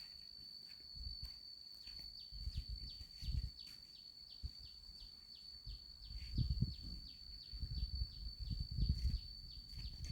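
Gusts of strong wind buffeting the microphone in uneven low rumbles, loudest a few seconds in and again near the end. Under them run a steady high thin whine and short falling chirps repeated two or three times a second.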